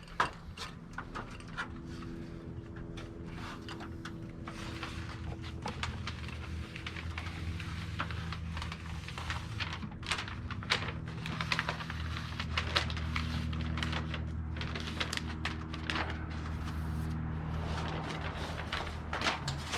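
Irregular crackling and clicking from self-adhesive window flashing being handled and pressed on by hand, over a steady low hum.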